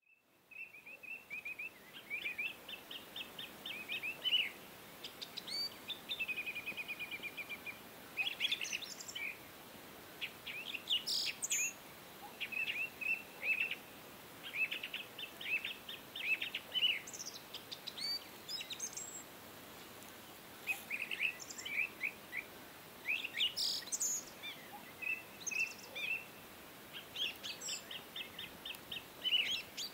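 Birds chirping and calling, with rapid runs of short high notes and trills repeating throughout over a faint steady hiss.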